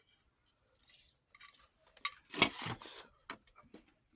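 Handling noise from an 8mm film viewer-editor and its reels: scattered small clicks and clinks, with a sharp click about two seconds in followed by a brief louder rustle.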